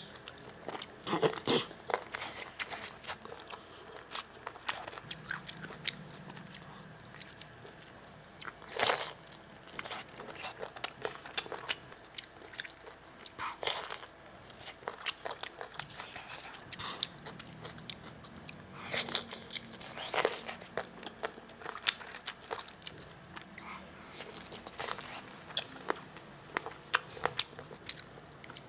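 Close-miked eating of grilled squid: irregular chewing and mouth clicks with several louder crunchy bites.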